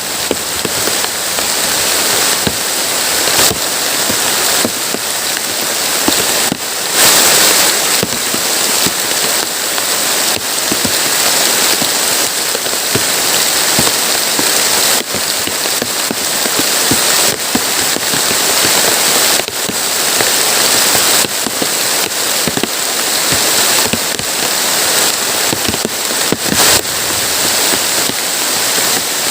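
Heavy rain pouring steadily, a dense hiss dotted with many sharp drop impacts.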